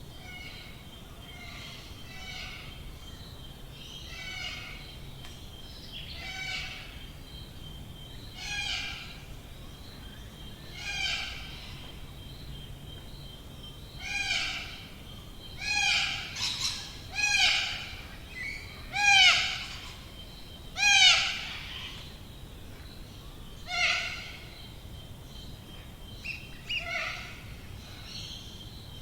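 A bird calls over and over, one pitched, slightly downward-curving call about every two seconds. The calls grow louder to a peak a little past the middle, then fade, with a faint steady high whine underneath.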